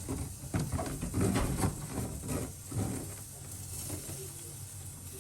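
Irregular rustling and light clatter of food being handled in the kitchen, busiest over the first three seconds and then dying down.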